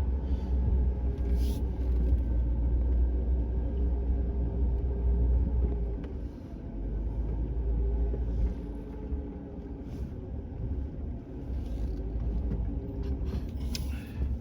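Vehicle engine running steadily with a heavy low rumble, which eases about six seconds in.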